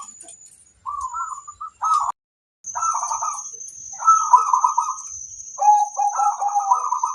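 Zebra doves (perkutut) cooing: a run of rolling, trilled coo phrases, with a lower-pitched second bird overlapping about six seconds in. The sound cuts out completely for a moment about two seconds in, and a thin steady high whine runs underneath after that.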